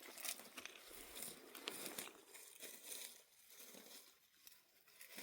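Faint, irregular rustling and crinkling with scattered small clicks, as of material being handled.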